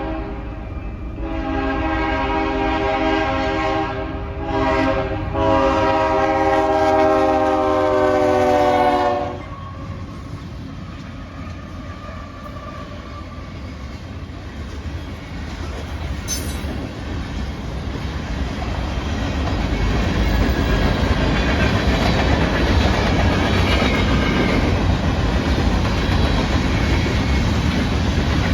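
Diesel freight locomotive's Nathan K3HA air horn blowing a grade-crossing signal: long, short, long, its chord dropping slightly in pitch as the lead unit passes. The horn then stops, and the rumble of the locomotives and the clatter of wheels on rail joints build as the train rolls by.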